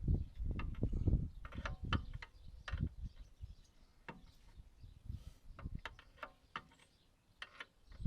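Irregular metallic clicks and knocks with a few dull thuds, from hand work on a mini digger's track tensioner as it is screwed in and tightened.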